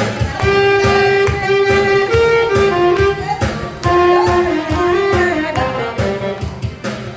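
Saxophone playing a melody of held and gliding notes over a backing track with a steady drum beat.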